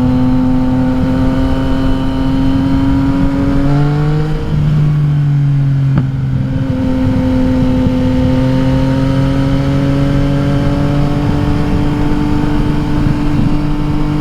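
2021 Yamaha XSR900's inline three-cylinder engine through an Akrapovič exhaust, riding under load with a steady drone that climbs slowly in pitch. The revs drop and reset about four to six seconds in, as in a gear change, then climb again. Wind rumble runs underneath.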